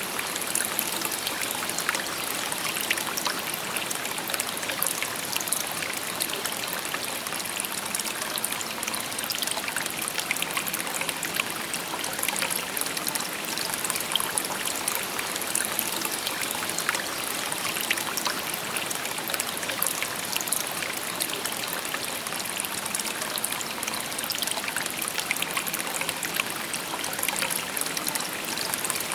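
Shallow stream babbling and trickling over stones, a steady even flow with many small splashes.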